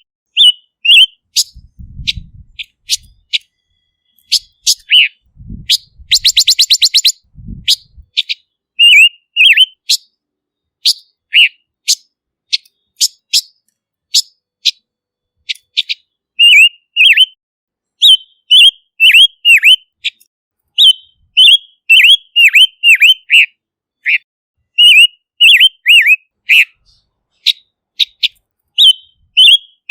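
Silver-eared mesia (Leiothrix argentauris) singing: loud, short, sharply down-slurred whistled notes in quick groups of two to four, repeated over and over. About six seconds in there is a brief rapid buzzy rattle. A few low thumps are heard in the first eight seconds.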